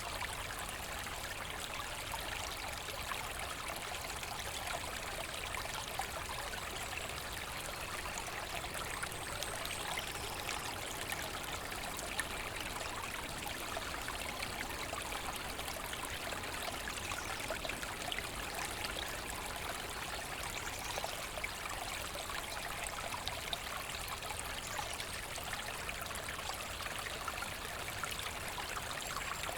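A brook babbling and trickling steadily, with many small splashes in the running water.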